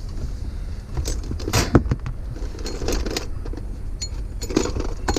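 Metal tools clinking and knocking against each other, several separate sharp clacks, as someone rummages for a screwdriver. A steady low rumble sits underneath.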